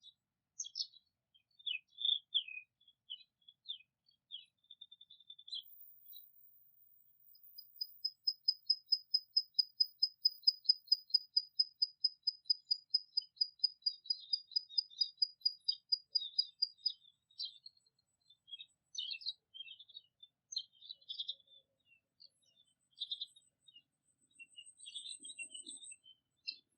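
Songbirds chirping in short, scattered high calls. Near the middle, one bird repeats a single high note several times a second for about ten seconds, then scattered chirps return.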